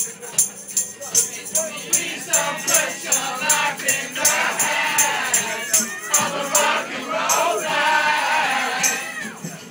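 A group of people singing a song together, unaccompanied by recorded music, over a steady rattling hand-percussion beat of about two to three strokes a second.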